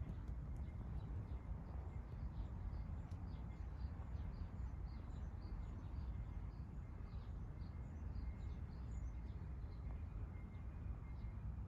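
Outdoor ambience: a steady low rumble with small birds chirping, many short high chirps scattered throughout.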